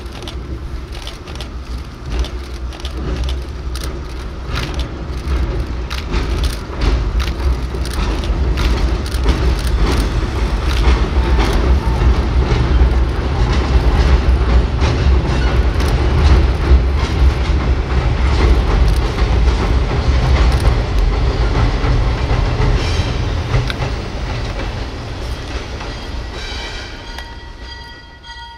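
ALCO S6 switcher's six-cylinder diesel rumbling as it hauls a short freight train across a steel deck girder bridge, the wheels clacking over the rail joints; the sound builds to its loudest midway as the cars roll past, then fades. Near the end a locomotive bell starts ringing.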